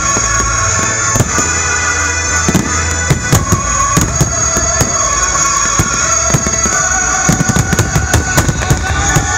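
Aerial fireworks bursting in quick succession, many sharp bangs with crackling that gets denser after about seven seconds, over loud music.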